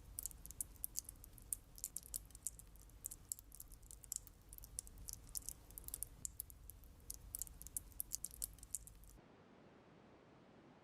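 Quick, irregular, crisp clicks and small scrapes of hand tools working on a scale-model truck, over a low hum, cutting off about nine seconds in.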